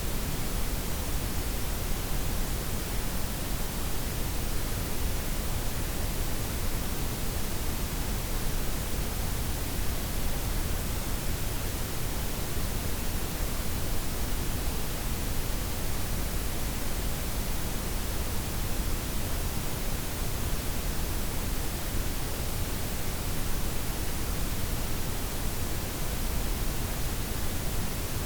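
Synthetic noise blend of white, pink and brown noise, a steady unchanging hiss with a deep low rumble underneath and softened highs.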